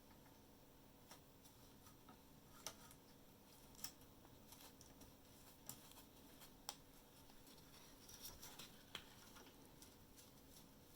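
Near silence over a low steady hum, with faint, scattered light clicks and ticks, about eight in all, typical of small tools or parts being handled on a workbench.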